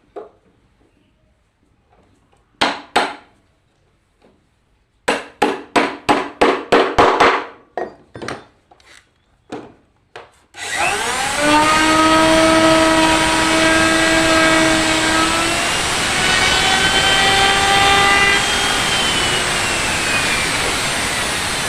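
A series of sharp wooden knocks, then about halfway through an electric wood-profiling (moulding) machine starts. Its whine rises as the motor spins up, then it runs loudly and steadily with a slight drop in pitch later on.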